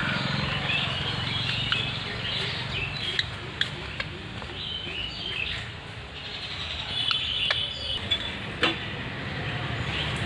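Parrots chirping and squawking in short bursts over a steady low background rumble, with a few sharp clicks, several near the middle and one loud click near the end.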